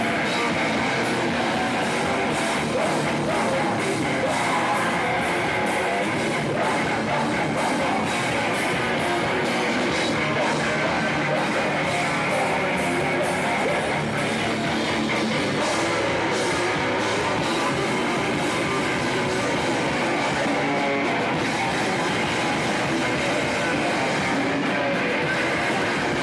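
Metalcore band playing live: distorted electric guitars and a drum kit in a dense, unbroken wall of sound at a steady level.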